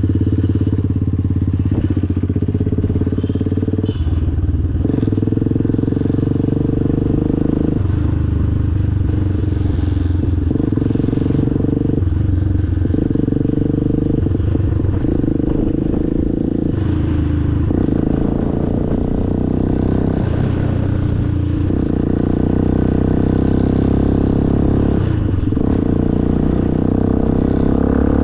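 Motorcycle engine running under way, its pitch stepping up and down every few seconds with throttle and gear changes.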